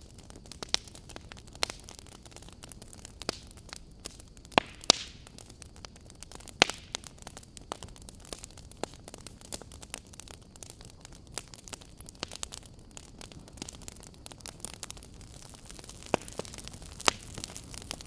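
Wood fire in a fireplace crackling: burning logs pop and snap at irregular moments over a soft steady hiss, with a few louder pops.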